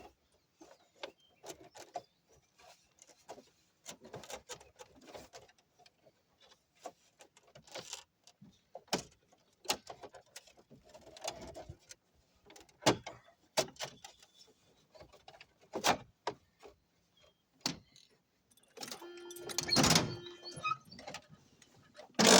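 Irregular clicks, knocks and rustles of hand work on parts, with a louder squeaky scraping sound for about two seconds near the end and a sharp knock right at the end.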